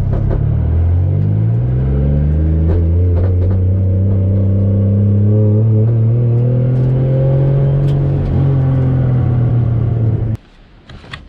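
Turbocharged 1JZ-GTE VVTi inline-six in a Nissan 240SX pulling through the gears, heard loud from inside the car: the pitch dips and then climbs, rises slowly and holds steady. It cuts off suddenly about ten seconds in.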